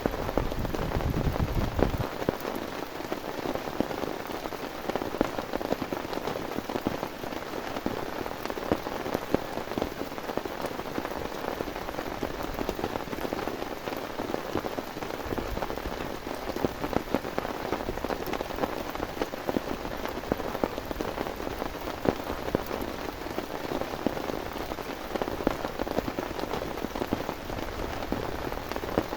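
Heavy rain falling steadily, with many individual drops striking a surface close by. A low rumble dies away about two seconds in.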